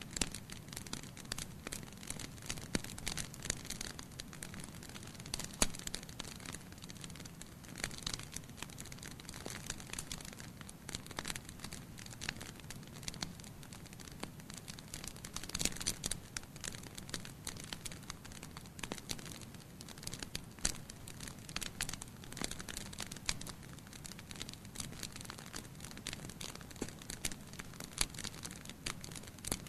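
Fire crackling in a fireplace: frequent irregular sharp pops and snaps over a steady low rush of flame.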